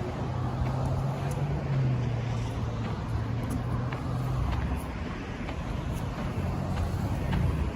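Street traffic: a vehicle's low engine hum over steady road noise, fading about halfway through, with another vehicle near the end.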